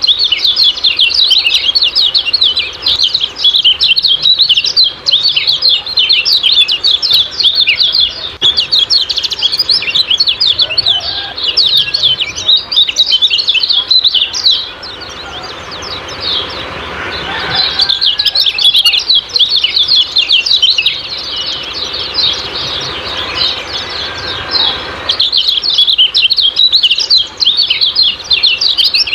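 Lemon-bellied white-eye (kecial kuning) calling in fast, high-pitched 'ciak-ciak' chirps, packed tightly together in long runs. The chirping drops away for a few seconds around the middle, leaving a soft hiss, then resumes.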